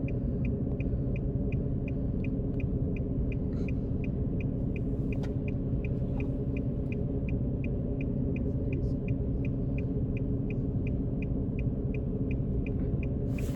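Inside a car: the engine runs with a steady low rumble while the turn-signal indicator ticks evenly, about three times a second.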